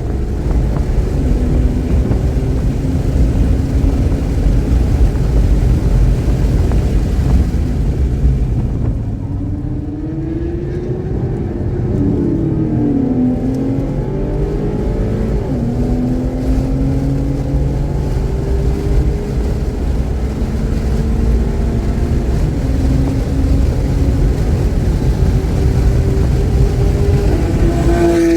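Car engine driven hard around a race track, running cleanly without misfiring, its pitch climbing as it accelerates and dropping when the driver lifts or shifts, with a deep rumble underneath. The sound eases about eight to ten seconds in, then the pitch jumps up and down briefly around twelve seconds before climbing again.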